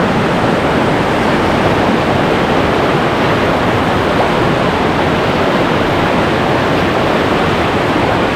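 Loud, steady rush of whitewater pouring through a river rapid, unbroken and without change.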